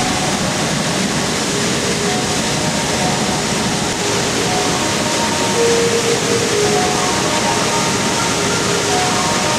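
Steady rush of falling water from a waterfall, an even noise with no breaks. Faint held musical tones sit beneath it.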